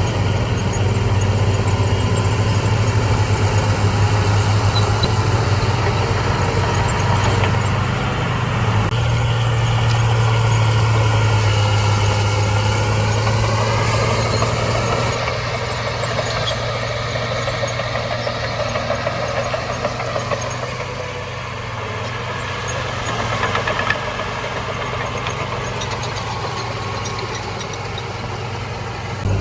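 Heavy diesel earthmoving machinery running steadily. The engine note rises and bends for a few seconds about a third of the way in, then the sound changes abruptly about halfway through.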